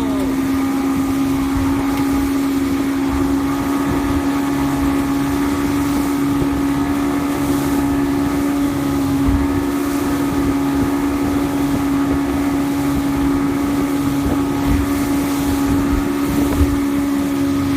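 Evinrude E-TEC 115 hp two-stroke outboard motor running at a steady speed, one unchanging engine tone, with wind on the microphone.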